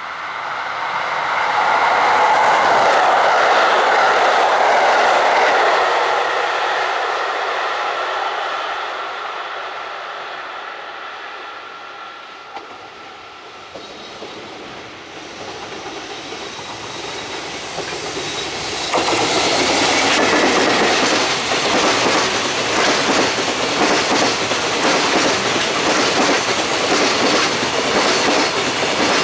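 A container freight train hauled by an EF65 electric locomotive approaches and passes close by. From about 19 seconds in, the wagons' wheels clatter steadily over the rail joints. In the first few seconds another train, out of view, passes, rising and then fading away.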